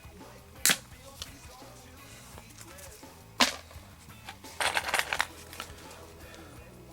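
Two sharp clicks, about 0.7 and 3.4 seconds in, then a brief rattling clatter of small hard objects, over steady background music.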